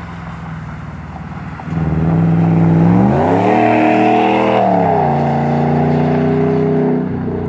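Exhaust of a Hemi V8 with a Y-pipe muffler delete, close to a straight pipe, under throttle. The engine gets suddenly louder a couple of seconds in and climbs in pitch. It holds briefly, then falls back to a lower steady note, and eases off near the end.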